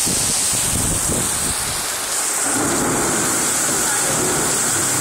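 Heavy rain pouring down on a paved street and parked scooters, a steady, loud hiss of a downpour.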